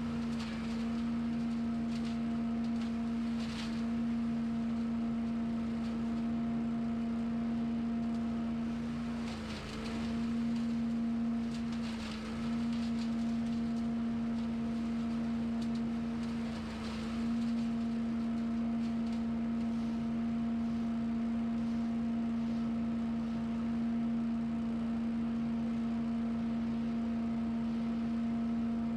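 Gas-powered lawn equipment running steadily at a constant high speed, a droning engine hum. The pitch dips briefly three times, about 9, 12 and 17 seconds in.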